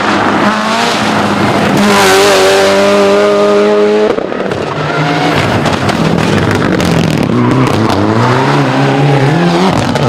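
Rally car engine at high revs, held steady for a couple of seconds, then cut off sharply about four seconds in. The revs then climb again through the last few seconds.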